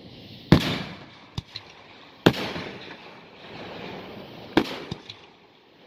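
Fireworks going off at close range: three loud booms about two seconds apart, each trailing off in a rolling echo, with a few smaller sharp cracks between them.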